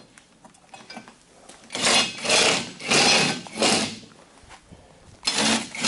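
Ratchet wrench clicking in short strokes: three strokes in a row, a pause, then another starting near the end, as suspension bolts are tightened.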